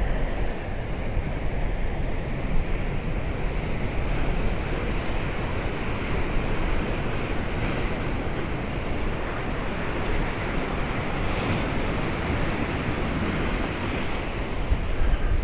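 Sea surf washing steadily onto the shore in stormy weather, with wind rumbling on the microphone.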